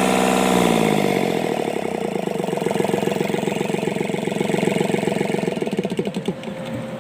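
Sunshine L1-255 tractor's D1462-TV diesel engine, rebuilt with a new valve seat and piston rings, being shut off. Its steady running drops away about half a second in, and it chugs down through slowing, separate strokes until it stops near the end.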